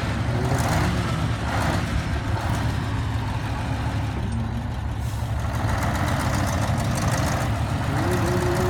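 Heavy diesel construction machinery running steadily at a dirt-fill site, its deep engine sound unbroken, with more mechanical noise building about halfway through.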